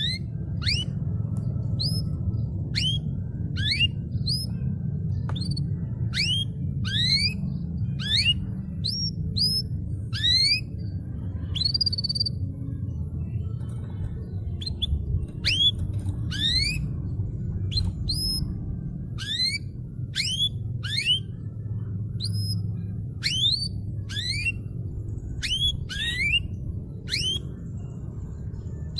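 Canary singing a repeated series of rising whistled notes, roughly one to two a second, with a short pause about halfway through, over a steady low background rumble.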